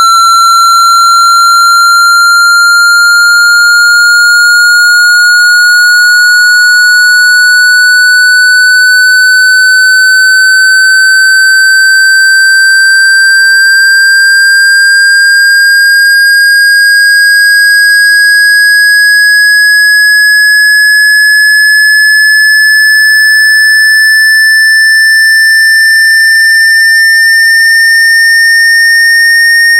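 Synthetic water-eject tone: a single loud electronic tone gliding slowly and steadily upward in pitch, with faint higher overtones above it. It is a frequency sweep meant to shake water droplets out of a phone speaker.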